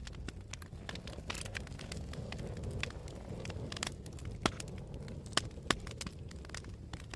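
Wood fire burning in a fireplace, crackling with irregular small snaps and pops over a low steady rumble, and three louder pops in the second half.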